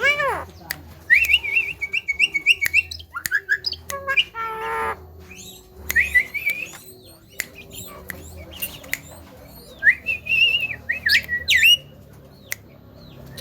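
Javan myna singing: a varied run of warbled whistles, harsh squawks and sharp clicks, with a rasping burst about four seconds in and a warbling whistle phrase near the end.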